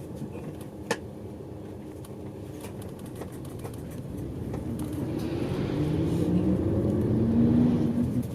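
Bus engine heard from inside the cabin, running low and then accelerating from about halfway through, its note rising and growing louder before easing near the end. A single short click sounds about a second in.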